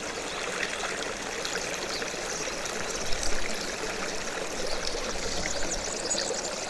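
Stream of water running steadily, an even rushing and trickling.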